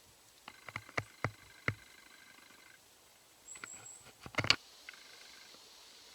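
Footsteps through forest litter, with twigs cracking underfoot: a scatter of sharp snaps in the first two seconds and a louder cluster of cracks about four and a half seconds in. A brief faint high whistle sounds just before the loudest cracks.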